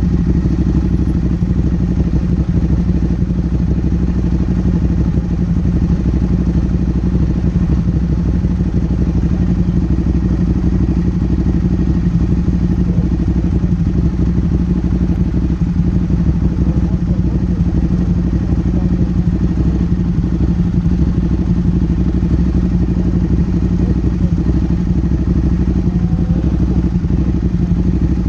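Motorcycle engine running steadily while riding, picked up by a camera mounted on the bike, with no revving up or down.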